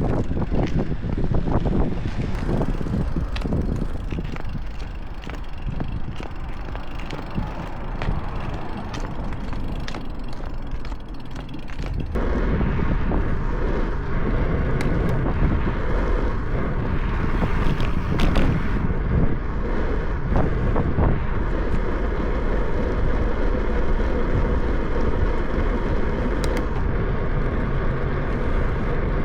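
Riding noise from a moving bicycle: wind rushing over the microphone with tyre noise on the path. About twelve seconds in it turns abruptly louder and steadier.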